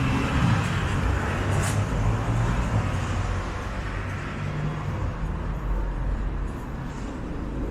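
City street traffic: vehicles passing with a low engine rumble and tyre noise, and one brief sharp sound about two seconds in.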